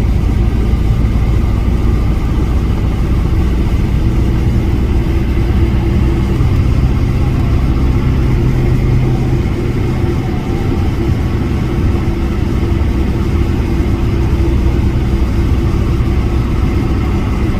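Motor vehicle engine running at low speed with road noise: a steady low hum whose lower engine tone fades out about halfway through.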